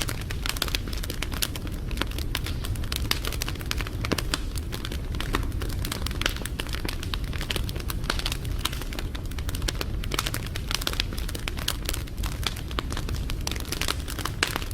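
Wood fire crackling, with many small sharp pops and snaps over a steady low rumble of the flames.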